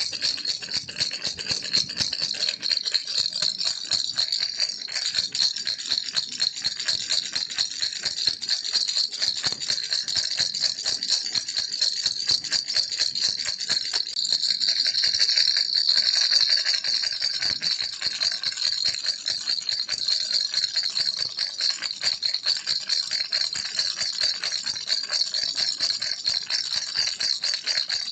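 A baby's rattle toy (kiliki) shaken continuously, its beads clattering in rapid, even strokes, a little louder about halfway through.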